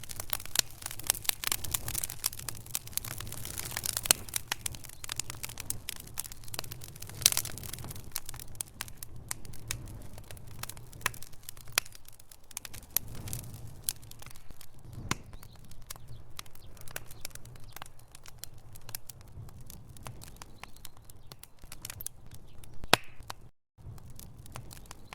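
Wood fire in a fireplace crackling, with burning logs giving off frequent sharp pops of uneven strength over a low rumble of flame; one of the loudest pops comes near the end, followed by a brief cut to silence.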